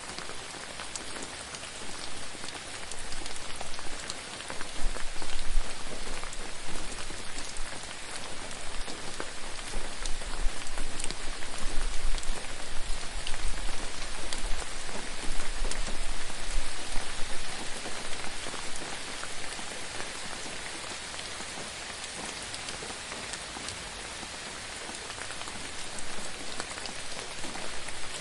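Steady rain falling on a surface, with many individual drops pattering; the rain grows heavier for a while in the middle, then eases off.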